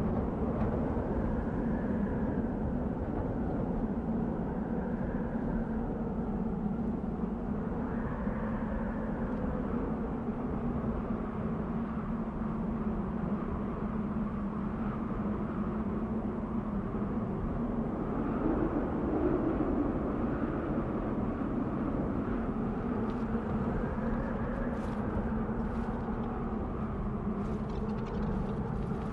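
Desert wind blowing steadily, with a soft whistle that rises and falls every few seconds as gusts come and go.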